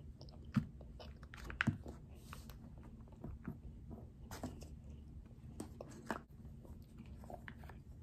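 A child chewing a big mouthful of Kinder Joy chocolate cream and chocolate hazelnut balls, with scattered small clicks and scrapes of a plastic spoon in the plastic egg half. The loudest clicks come about half a second and a second and a half in.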